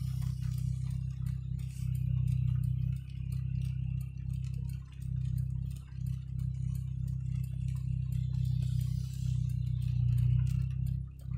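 Inside a moving car: the steady low rumble of engine and road noise, with a run of light ticks over it.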